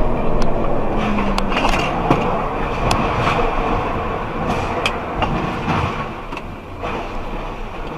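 Running car noise, a steady rumble and hiss, with several short sharp knocks scattered through it.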